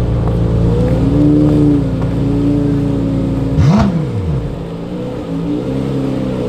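Modified car engines idling steadily, with one quick throttle blip about three and a half seconds in, where the engine note rises sharply and falls back.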